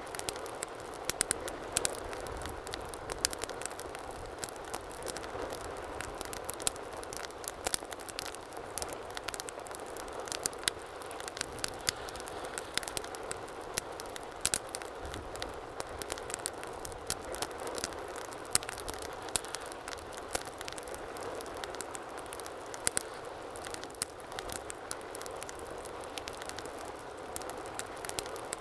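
Wood fire burning steadily, with a soft rushing of flames and frequent irregular sharp crackles and pops.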